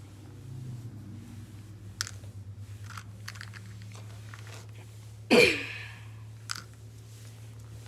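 Small mouth and throat noises, then one loud short throat sound about five seconds in, like a cough, over a steady low electrical hum.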